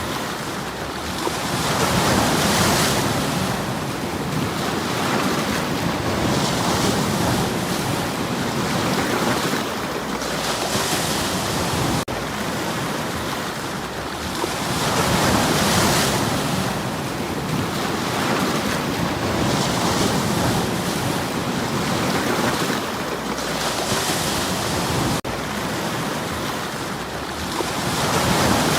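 Sea waves washing onto a stony shore, rising and falling in surges, with the biggest swells about every thirteen seconds.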